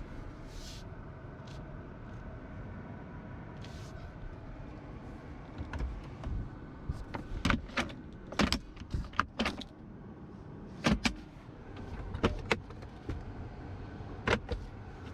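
Steady low rumble inside the cabin of a Toyota RAV4 hybrid. From about halfway in, a dozen or so irregular sharp clicks and knocks come, some in quick pairs.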